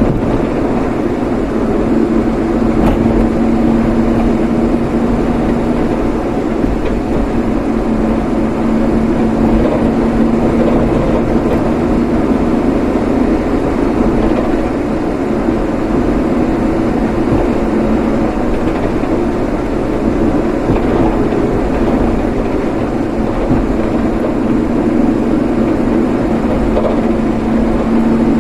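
Steady engine and road noise of a vehicle on the move, with a constant low hum.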